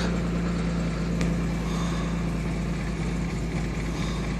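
1969 Jaguar E-Type's 4.2-litre straight-six idling steadily just after a cold start.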